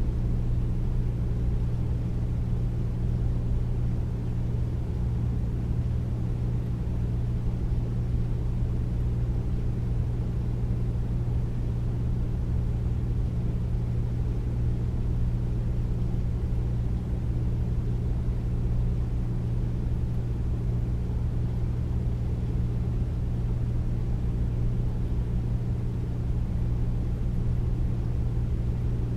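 Air conditioner running steadily: a deep, even hum with a constant low tone under a soft rush of air.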